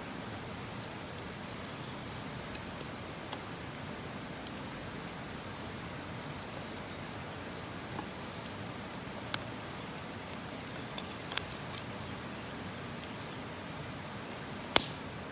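Campfire burning: a steady hiss with a few sharp crackling pops, the loudest near the end.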